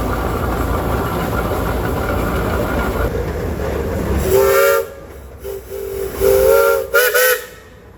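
Steam whistle on a steam engine, blown in several blasts about halfway through: a long one, a short toot, another long one, then two quick toots. Before it, a steady low rumble of running engines.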